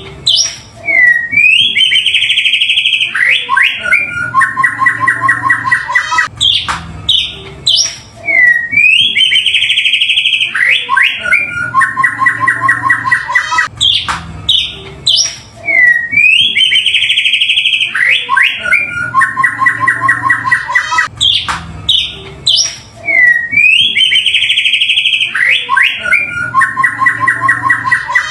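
White-rumped shama song played as a looped lure recording: the same phrase repeats about every seven and a half seconds, each time a quick upward-sweeping note, a loud high warble and then a fast, even rattling trill.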